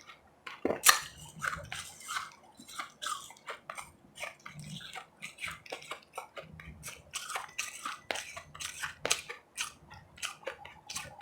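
Close-miked biting and chewing of powdery refrozen ice chips: a quick irregular run of sharp crunches, the loudest about a second in.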